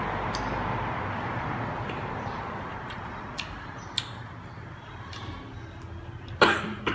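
Close-up chewing of a crisp, unripe June plum (ambarella), fading over the first few seconds, with a couple of sharp clicks as fruit is handled on the tray. Near the end there is a short, loud burst, followed by a smaller one.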